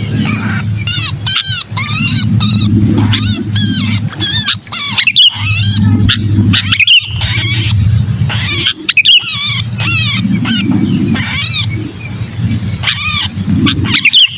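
Distress calls of a trapped sooty-headed bulbul: rapid, repeated squealing notes that rise and fall. Underneath runs a steady low rumbling noise, and the calling breaks off briefly a few times.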